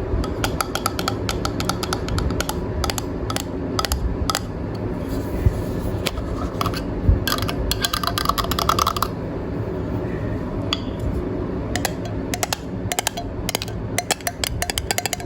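Irregular clusters of small clicks and taps from handling the matcha packaging and kitchen utensils, over the steady hum of a running fan.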